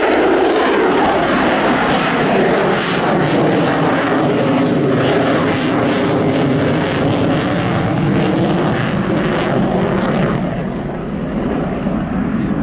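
USAF F-35A Lightning II's single Pratt & Whitney F135 afterburning turbofan on a low pass: loud jet noise with a ragged crackle, the tone sliding lower as it goes by. The high hiss falls away about ten seconds in as the jet moves off.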